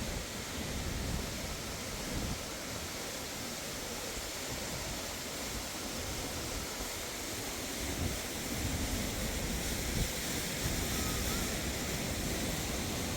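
Steady rush of flowing water, with uneven low wind buffeting on the microphone.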